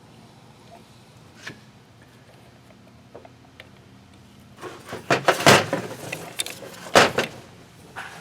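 Hard clicks and clattering knocks of metal carburetor parts being handled and pulled apart, with a few light ticks at first and a loud cluster of knocks in the second half. The source is a two-barrel Holley carburetor being taken apart for a rebuild.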